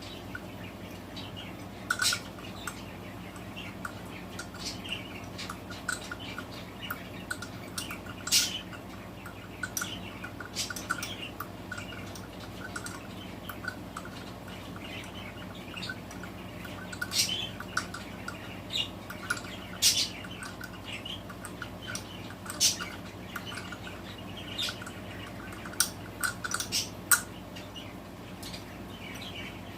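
Ratchet wrench clicking in short runs and tools clinking on metal as the engine's cylinder head bolts are snugged down, with a low steady hum underneath.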